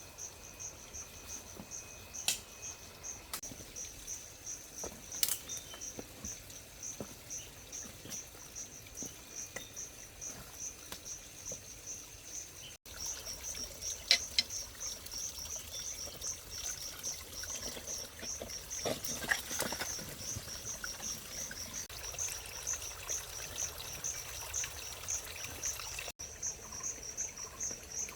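Insects chirping in a steady, rapidly pulsing chorus, with a few scattered clicks and a short watery pouring sound about two-thirds of the way through.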